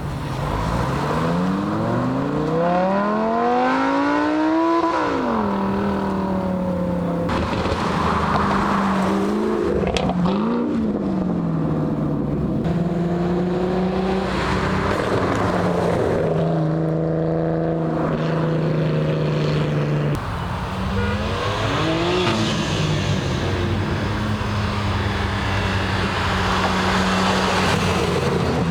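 Car engines pulling out and accelerating. The engine note climbs and drops at a gear change, then holds a steady drone, with short revs partway through and near the end.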